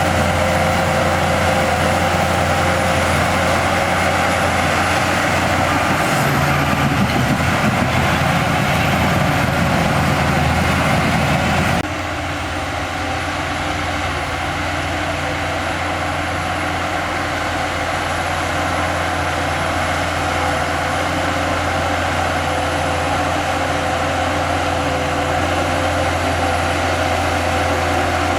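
Heavy construction machine's diesel engine running steadily with a strong low hum. It works harder from about six seconds in, then drops abruptly to a slightly quieter, steadier running about twelve seconds in.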